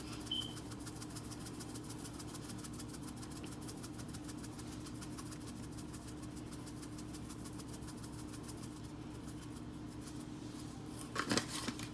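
A steady low mechanical hum with a faint, fast, even ticking over it. A few soft knocks come near the end.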